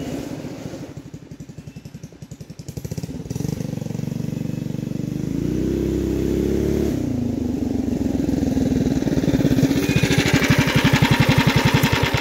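Baja Warrior mini bike's small single-cylinder four-stroke engine passing by. It eases off about a second in, revs up in a rising whine, then runs steadily and grows louder as it comes close near the end. There is little sign of the hoped-for pops on deceleration.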